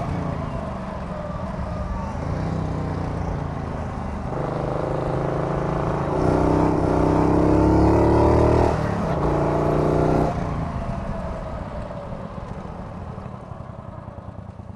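Morgan 3 Wheeler's S&S V-twin engine pulling hard, its note climbing through the revs and briefly dipping at a gear change. After about ten seconds the throttle shuts and the engine note drops away and fades.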